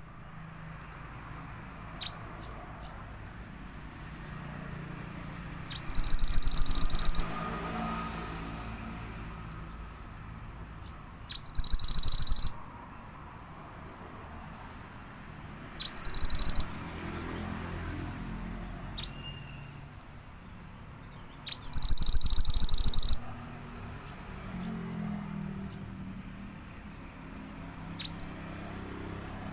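A mantenan songbird singing vigorously: four loud, rapid high trills of about a second each, spaced some five seconds apart, with short single chirps in between.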